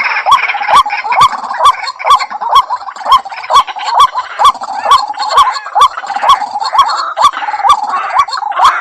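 White-breasted waterhen (ruak-ruak) calling: a fast, monotonous run of short upward-hooked notes, about two to three a second, each with a sharp click, over a dense harsh chattering chorus.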